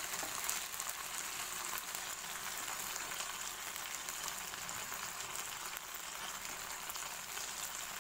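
Marinated chicken kebab pieces shallow-frying in a little oil in a non-stick pan: a steady sizzle with fine crackling.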